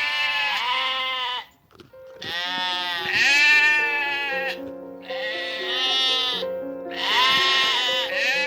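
A sheep bleating four times. Each call is long and wavering, rising and falling in pitch. Background music with held notes plays underneath.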